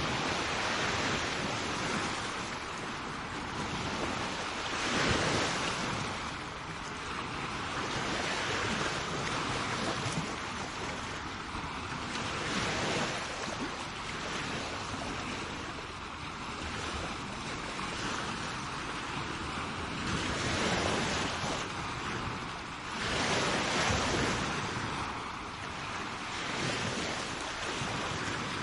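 Sea waves washing onto a shore: a continuous rushing surf that swells louder as each wave breaks, several times, with some wind on the microphone.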